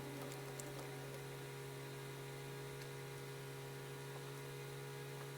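Steady low electrical hum with faint hiss, and a couple of faint ticks.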